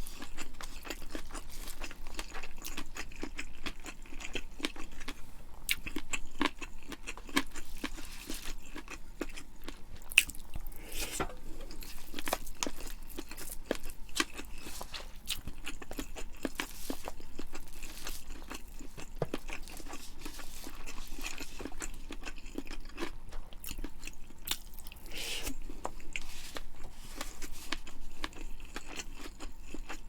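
Close-miked chewing and crunching of food: a dense, continuous run of small crackles, smacks and bites.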